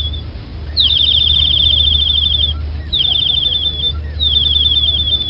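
A bird singing a high, rapid trill in repeated phrases, each opening with a quick downward slide. There are three full phrases after the tail of an earlier one, all over a steady low hum.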